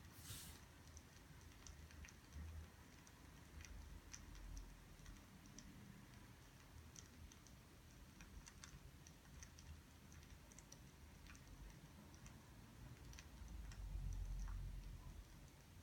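Faint, scattered small clicks and ticks over near-silent room tone, with a brief louder rustle right at the start and a low rumble near the end.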